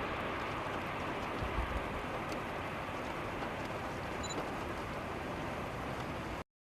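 Steady rushing noise of wind and rain on a moving storm-chasing vehicle, with a few low thumps, cutting off suddenly near the end.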